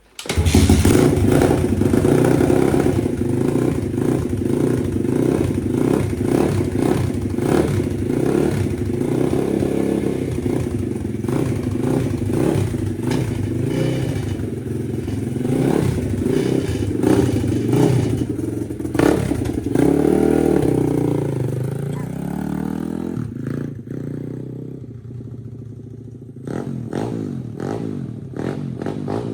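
Chinese pit bike's single-cylinder four-stroke engine running loud just after being fitted with a new camshaft, with revs rising and falling about two-thirds of the way through. It then drops to a quieter, lower running before picking up again near the end.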